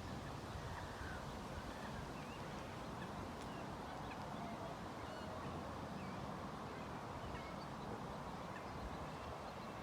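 Faint outdoor ambience: a steady low background with scattered faint short bird calls.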